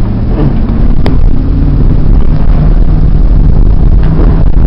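Loud, steady low engine drone with a sharp click about a second in.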